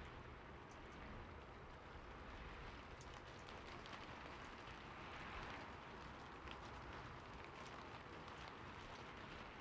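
Rain falling steadily on a roof: an even, soft hiss with scattered sharper drop ticks throughout.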